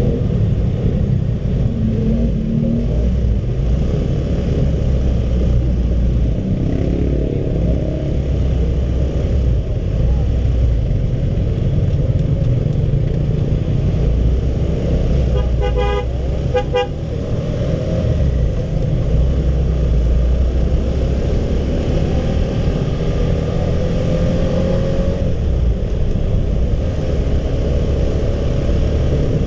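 Wind buffeting and road and engine noise on a moving Honda CB150R motorcycle in traffic, with two short vehicle-horn toots a little past halfway.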